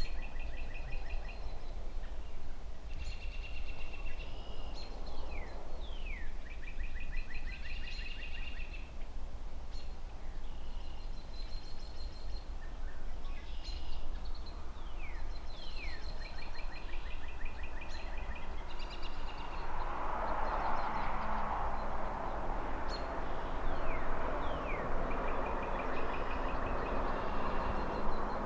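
A songbird repeats a short song every few seconds: a quick downward-sliding note, then a rapid trill. Steady low rumble of distant city traffic underneath. Past the middle, a broad rushing sound swells up and stays to the end.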